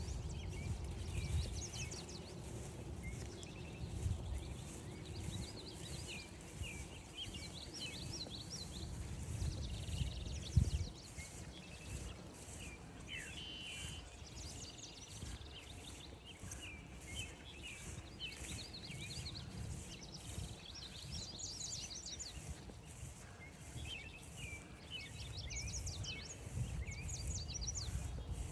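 Several songbirds singing and calling over and over, with a low rumble underneath and one sharp knock about ten seconds in.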